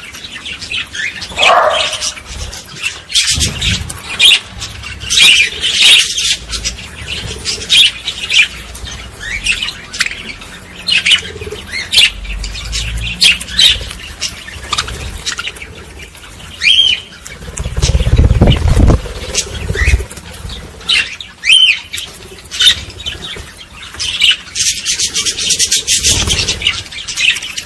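Small birds chirping and twittering in quick, overlapping short calls and trills, with a brief low rumble about eighteen seconds in.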